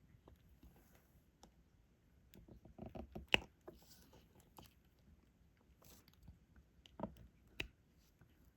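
Small plastic clicks and taps of a diamond painting stylus picking up resin drills and pressing them onto the canvas. A short run of clicks about three seconds in ends in the loudest click, and two more clicks come about seven seconds in.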